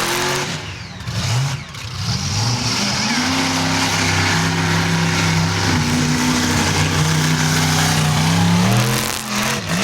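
Bigfoot monster truck's engine revving: a few short rises in pitch, then held at high revs for several seconds before dropping off near the end.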